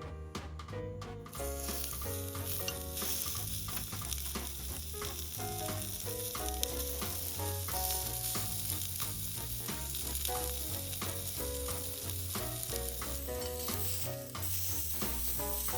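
Food sizzling and frying in a pan: a steady hiss with small crackles that grows louder about a second in. Background music with short melody notes and a steady bass beat plays underneath.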